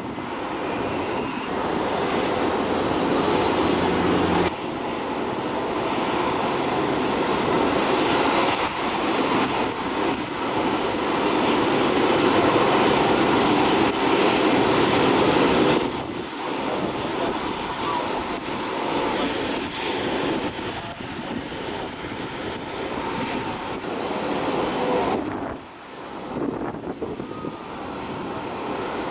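Airbus A380 jet engines running, a steady roar with a faint high whine. The sound changes abruptly three times, about 4, 16 and 25 seconds in.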